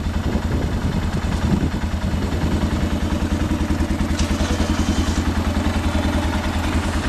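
Arctic Cat 650 H1 ATV's single-cylinder four-stroke engine idling steadily, with an even, rapid pulsing beat.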